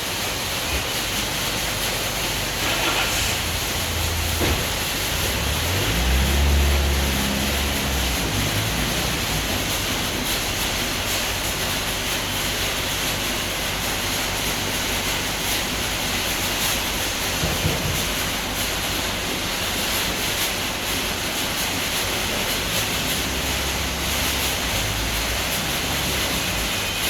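Kleindienst California rollover car wash machine running: a steady rushing noise of water spray and rotating wash brushes, with a low rumble swelling about six seconds in and again near the end.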